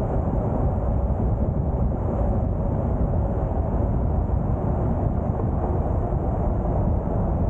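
A 4x4 vehicle driving on a trail, with a steady low rumble of engine and tyre noise.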